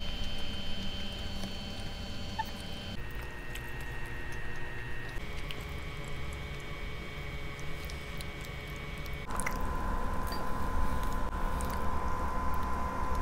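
Close-miked eating sounds: grilled inasal chicken is pulled apart by hand and chewed, with small wet squishing sounds from the mouth and fingers.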